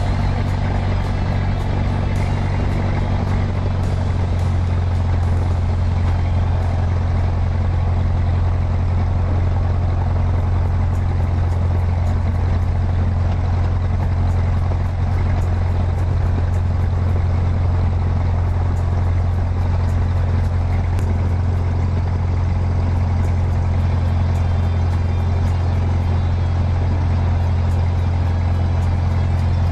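Cessna 150's four-cylinder Continental O-200 engine and propeller running at a steady speed, heard from inside the cabin as a loud, even drone.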